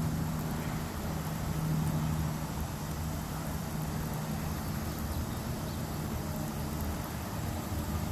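Steady low mechanical hum, like an engine running, with no sudden sounds.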